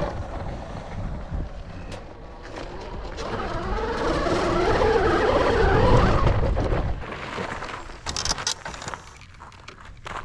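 Rawrr Mantis X electric dirt bike riding, its motor whine wavering up and down over heavy wind rumble on the microphone, loudest about six seconds in. It then slows and quiets, followed by a few sharp clicks and scrapes.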